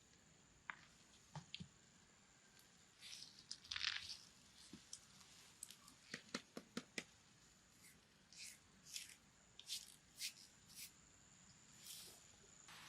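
Faint handling noises: scattered sharp clicks and a few short rustles, the loudest rustle about four seconds in.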